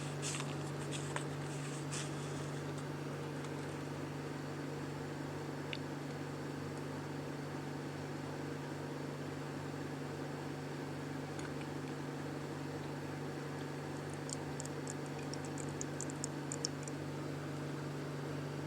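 Steady low hum with a faint hiss of room noise. There are a few light clicks in the first two seconds and a quick cluster of small high ticks near the end.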